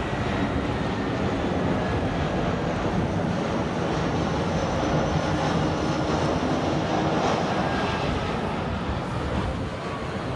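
Jet airliner engines of an arriving Airbus A318, a steady loud rush that swells around the middle and begins to fade near the end.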